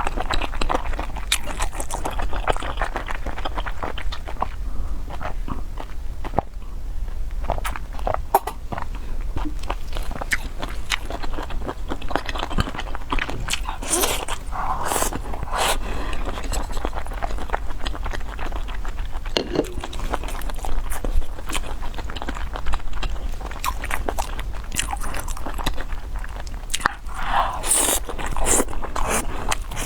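Close-miked chewing and biting: a person eating, with scattered sharp clicks and short smacking sounds, over a steady low hum.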